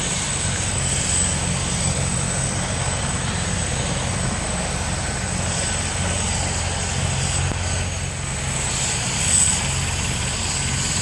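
Rescue helicopter running nearby: a steady rotor chop under a high, constant turbine whine, swelling slightly near the end.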